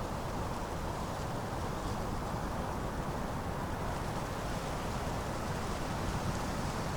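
Steady wind blowing through leaves, a deep, even rush with no breaks or gusts standing out.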